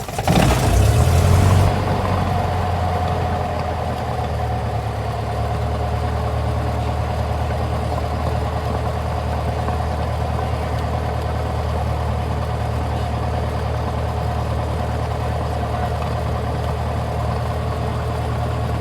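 Cessna 172's piston engine catching right at the end of starter cranking. It runs louder for about two seconds, then settles into a steady idle.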